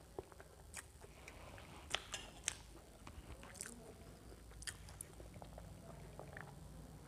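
Faint wet mouth clicks and lip smacks of a person chewing food, followed by drinking from a steel tumbler with a few small gulps.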